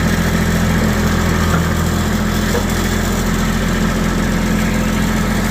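A vehicle engine running steadily at a low, even speed with a constant low hum.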